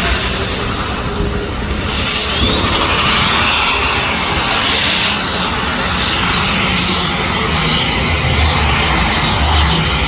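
Pro unlimited pulling tractor running at full power down the track, a loud steady engine noise with a high whine that rises and then holds about two seconds in.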